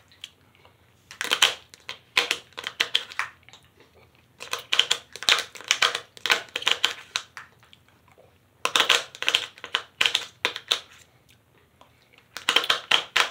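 Close-up eating sounds: crunchy chewing of spoonfuls of diced apples and creme, in bouts of a few seconds with short pauses between.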